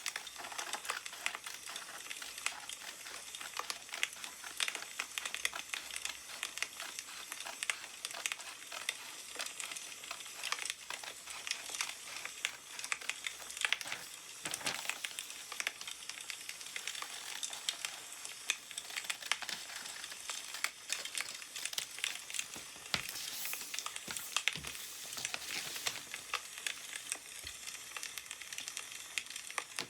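Wood fire crackling, a steady run of small pops over a soft hiss. Paper rustles a few times, around halfway and again later.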